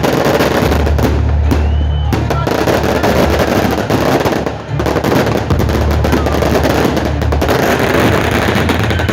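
Fireworks going off in a dense run of rapid crackles and bangs, over loud music with a heavy pulsing bass from a sound system.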